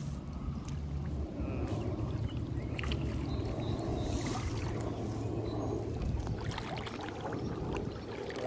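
River water sloshing and splashing, with a steady low wind rumble on the microphone and a few faint clicks.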